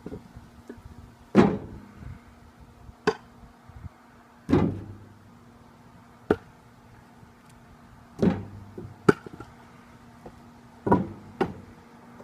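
Pieces of split firewood knocking and landing, about eight sharp hits spaced a second or two apart, some of them with a short ringing tail.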